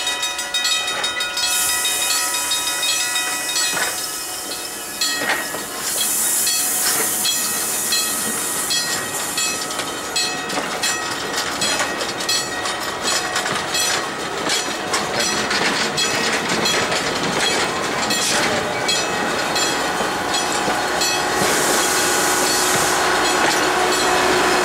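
Train of passenger coaches rolling slowly past on a backing move, steel wheels clicking over the rail joints and squealing in steady high ringing tones. Two loud bursts of hiss, about six seconds in and again near the end.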